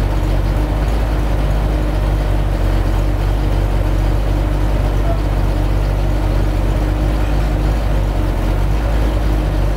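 Vehicle engine running steadily at low revs with a deep, even hum.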